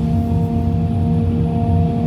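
Hitachi EX350LC hydraulic excavator's diesel engine running steadily under load, with a steady hydraulic whine over the low engine drone.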